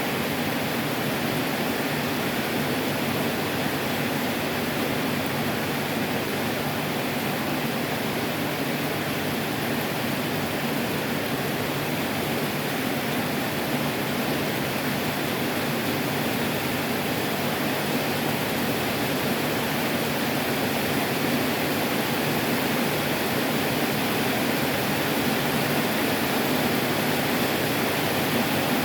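Heavy tropical rain pouring down steadily, an even hiss with no breaks.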